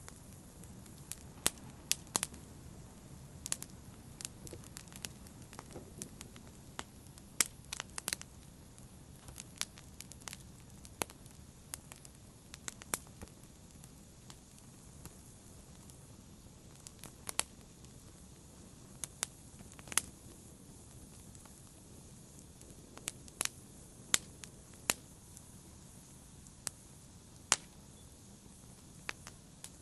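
Wood fire crackling: irregular sharp pops and snaps over a low, steady hiss of burning.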